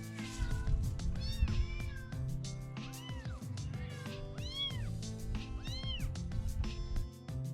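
Month-old kitten meowing repeatedly: about five high calls, each rising then falling in pitch, over background music.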